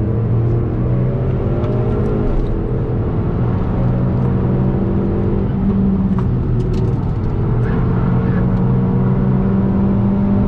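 Hyundai i30 N's turbocharged four-cylinder engine pulling hard at high revs, heard from inside the cabin over tyre and road noise; its pitch climbs slowly, with a few brief drops.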